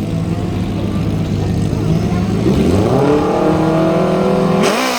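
Racing engine held at a steady pitch, then revved up about two and a half seconds in and held at a higher, louder pitch, typical of a racer staging at the start line of a drag strip.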